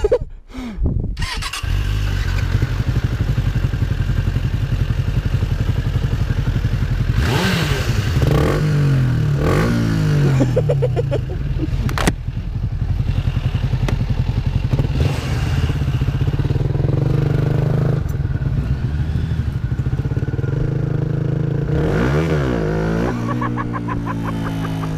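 Yamaha MT-125's single-cylinder engine, through an aftermarket GPR exhaust, running under way. The revs rise and fall about 8 seconds in and again near the end, and there is one sharp click about 12 seconds in.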